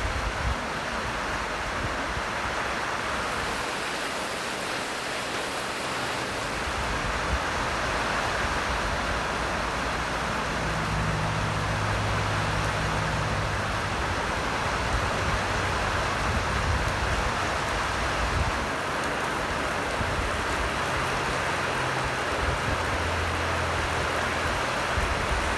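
Steady rain falling, an even hiss throughout. A low hum comes in about ten seconds in and again near the end.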